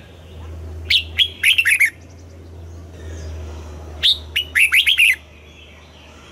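Red-whiskered bulbul singing two short song phrases about three seconds apart, each a quick run of clear whistled notes sliding down in pitch. A low steady hum runs underneath.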